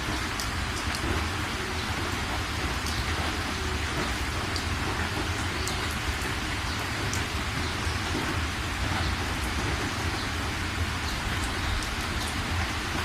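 Steady rain falling, with scattered drips ticking and a constant low rumble beneath.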